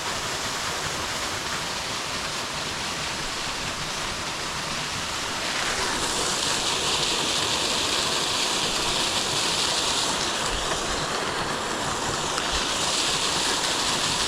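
Steady rushing of a stream's running water. It grows louder and brighter about six seconds in.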